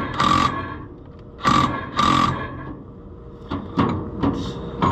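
Hammer striking a steel part on an Oliver 7300 combine head, knocking it over to line up with a pin hole. The blows come in pairs about half a second apart, each ringing briefly, with lighter, quicker taps near the end.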